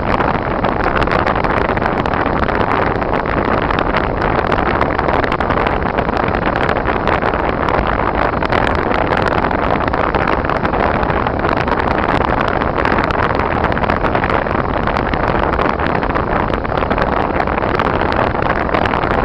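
Steady noise of a car driving on snowy, icy roads: engine, tyre and wind noise blended into an even rush with no change in pace.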